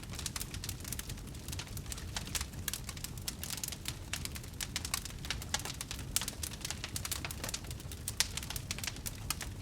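Wood fire crackling: a dense, irregular run of small crackles and pops over a low, steady rumble of burning, with a few sharper pops about six and eight seconds in.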